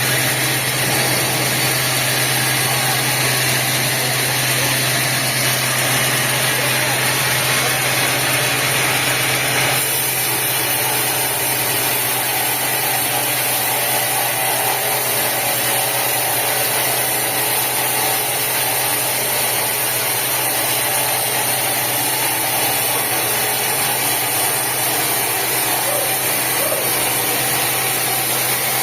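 Sawmill machinery running steadily, an engine-like drone with a low hum; the tone shifts and drops slightly about ten seconds in.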